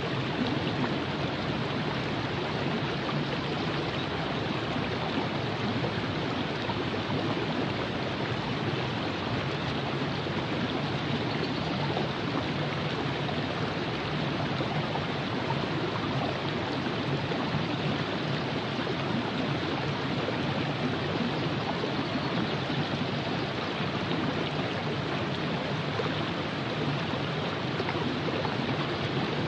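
Steady rushing and gurgling of the Virgin River flowing over rocks, an even, continuous water noise.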